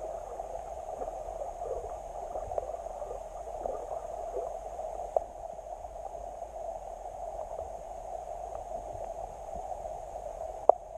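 Creek water running and gurgling steadily, with a couple of sharp clicks, one about halfway and one near the end.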